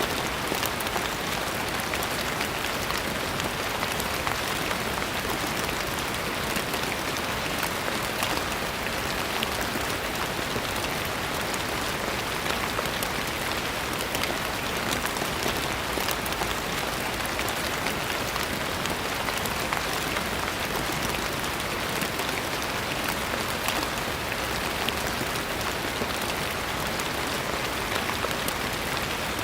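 Steady rain falling on a surface: an even hiss with many fine drop patters, unchanging throughout.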